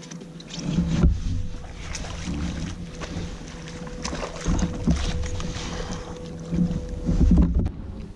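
Wind buffeting the microphone on an open lake with water lapping at a fishing kayak's hull, broken by irregular knocks and thumps from movement in the kayak.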